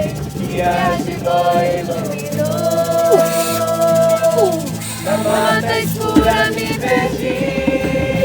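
Live band music with sustained melody lines and singing over a shaker rattle.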